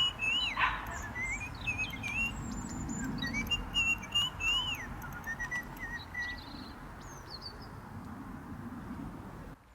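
Birds chirping and whistling, several short rising and falling calls overlapping over a steady background hiss, cutting off abruptly near the end.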